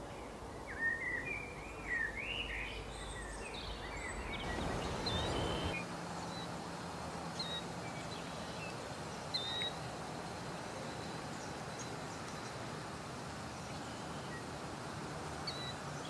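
Outdoor ambience with wild birds calling: a quick run of chirping notes in the first few seconds, then a steady background hiss with a few short, high chips every couple of seconds.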